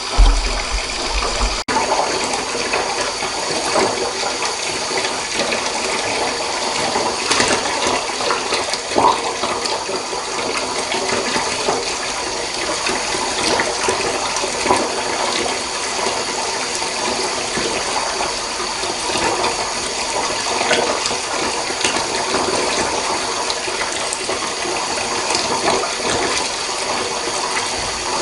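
Water running into a bathtub, a steady rush with many small splashes. A brief low rumble sounds right at the start.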